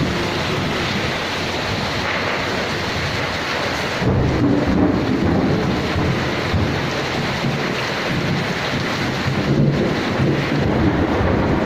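Heavy rain pouring steadily, with a low rumble of thunder that swells in about four seconds in and keeps rolling.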